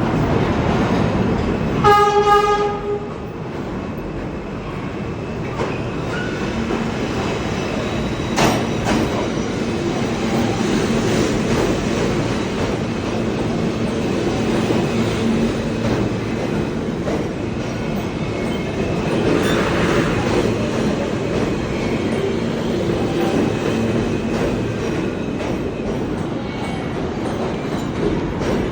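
Underground subway train running, with a steady rumble and rattle of wheels on track. About two seconds in, a short pitched tone sounds for about a second, like a horn or warning signal. A sharp click comes near eight seconds in.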